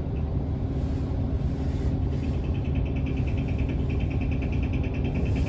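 Isuzu Erga city bus's 5.2-litre four-cylinder diesel running, heard from inside the passenger cabin as a steady low rumble. A rapid high-pitched pulsing tone starts about two seconds in and keeps going.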